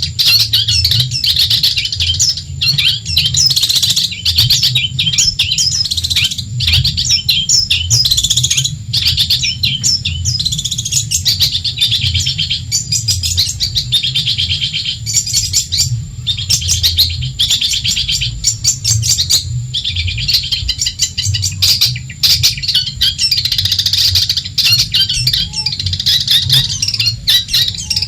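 Long-tailed shrike (cendet) singing a fast, nearly unbroken run of short high chattering notes, over a low steady hum.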